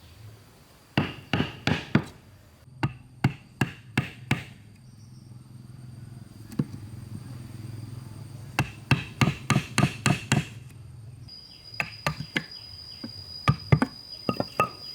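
Hammer blows on wood, struck in quick runs of four to eight blows with short pauses between.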